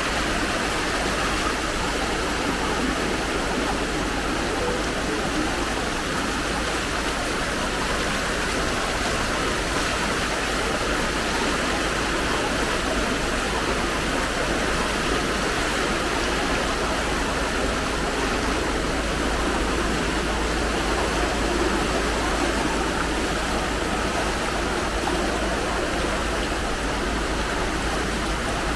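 Steady rushing of fast-flowing floodwater, an even, unbroken noise.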